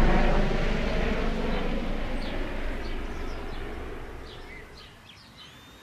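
Small birds chirping in short, sharp calls over a low rumbling noise that steadily fades away, leaving only the birdsong near the end.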